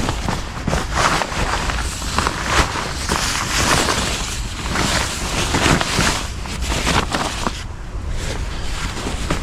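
Gusty wind rushing, with a steady low rumble of wind buffeting the microphone and rapid rustling flickers throughout.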